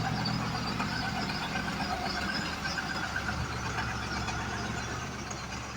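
Truck engine running steadily with a low hum, easing off slightly near the end.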